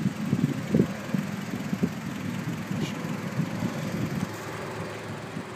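Car engine running, heard from inside the car, with a steady low hum and an uneven low rumble that eases off near the end.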